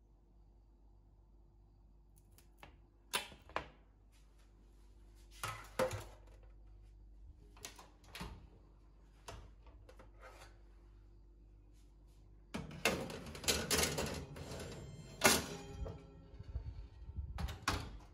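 Objects being handled: scattered single knocks and clicks, then a busier stretch of clatter about two-thirds of the way through, over a faint steady hum.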